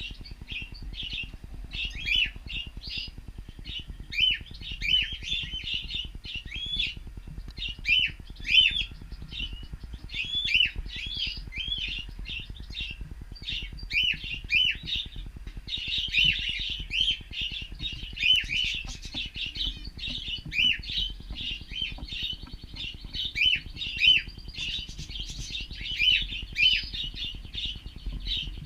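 Cockatiels chirping and calling without a break, short arched chirps coming several a second, more than one bird at once, busiest around the middle and again near the end.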